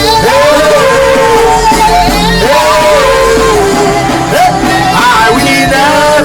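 Church worship music: voices singing over a backing band, loud and continuous.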